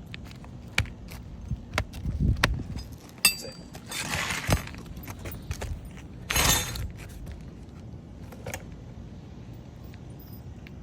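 Scattered metallic clinks and knocks, like tools or hardware being handled, with two brief scraping rushes, one about four seconds in and one about six and a half seconds in.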